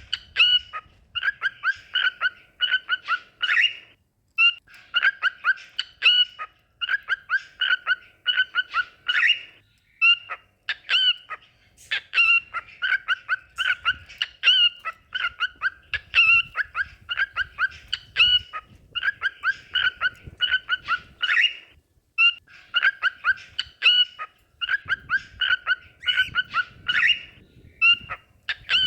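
Cockatiel singing: quick runs of short, high whistled notes strung into phrases, broken by brief pauses a few times.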